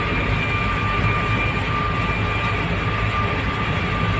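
Truck cab interior on the move: the engine's steady low drone and road noise, with a thin steady whine over it.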